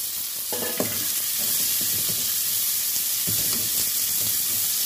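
Chopped onions, tomatoes and whole spices sizzling in hot oil in a metal kadai, while a slotted metal spatula stirs and scrapes through them. There is a short sharp tap just under a second in.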